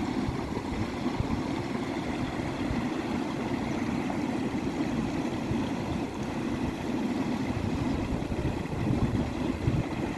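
River water rushing steadily, an even noise with no breaks or pauses.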